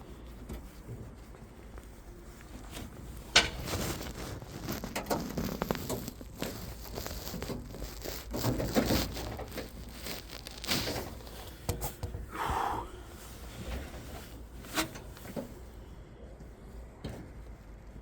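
Hands-on work noises: scattered clicks, knocks and rustling as parts and pipe are handled, with one brief higher-pitched squeak partway through.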